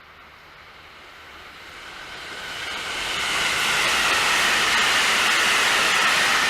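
A train approaching and passing the trackside, its noise growing over about three seconds and then holding loud and steady, with a hissing rush of wheels on rail.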